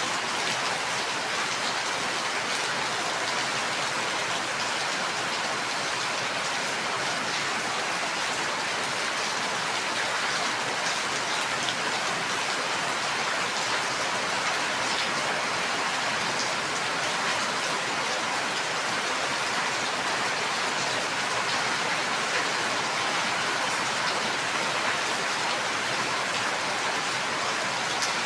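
Steady rain falling, an even hiss of many drops with faint individual patters, no thunder.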